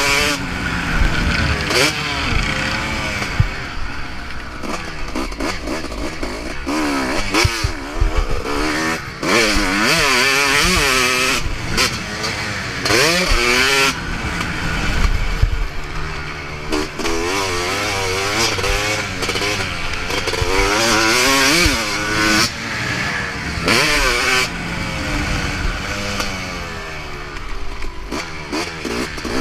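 Motocross bike engine revving hard and dropping again and again as it is ridden around a dirt track, its pitch rising and falling with each throttle change and gear shift. The engine has a freshly fitted piston that has just been run in.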